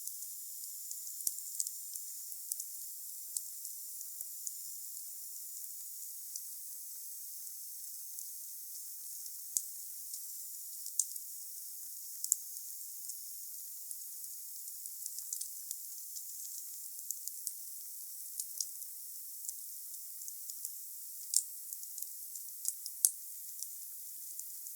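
Wood fire burning with a steady hiss and irregular sharp crackles and pops, several louder snaps standing out. A faint high whistle runs through the first half and fades out.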